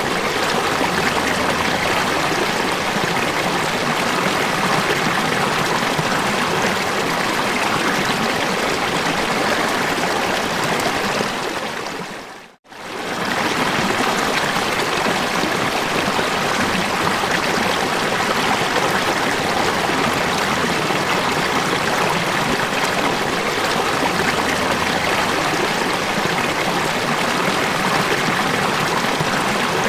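Steady rush of falling water. About twelve seconds in it fades out to near silence and comes straight back, as at the join of a looped recording.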